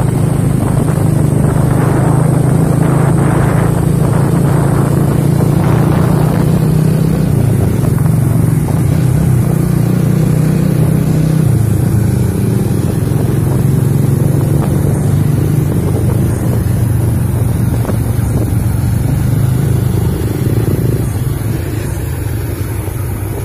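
Heavy truck engine running loudly and steadily. Its pitch steps down slightly about halfway, and it grows quieter near the end.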